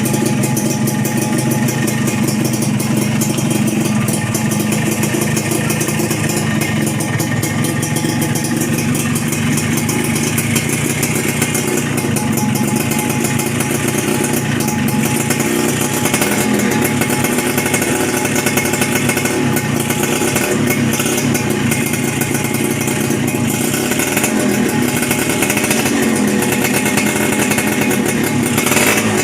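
Suzuki Satria single-cylinder two-stroke engine running steadily through an aftermarket Creampie-style silencer, which the owner takes for a knockoff copy.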